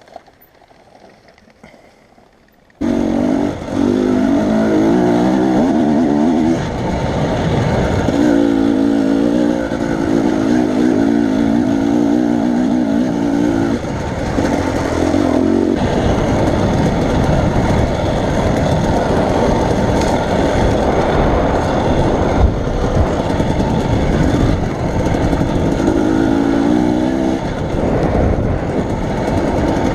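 A motor vehicle's engine comes in suddenly about three seconds in and runs loudly and steadily, its tone shifting now and then.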